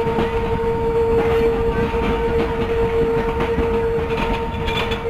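Passenger train rolling slowly into a station, heard from a coach: a steady rumble of wheels on track under one unbroken, steady high tone.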